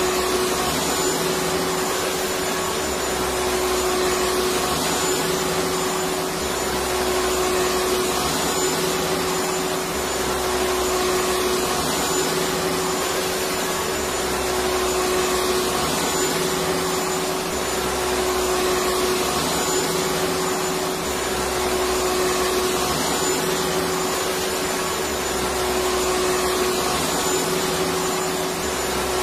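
Electric vacuum cleaner running continuously: a steady motor whine with a strong constant tone, and a low rumble that swells gently every three to four seconds.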